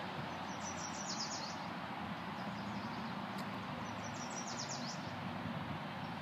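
A songbird singing two short phrases of quick, high, down-slurred notes, about a second in and again some three and a half seconds later, over a steady hiss of outdoor background noise.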